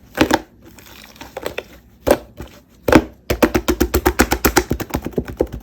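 Crisp crunches from close-up handling or biting of Shine Muscat grapes: a few single crunches, then a quick run of sharp clicks at about ten a second.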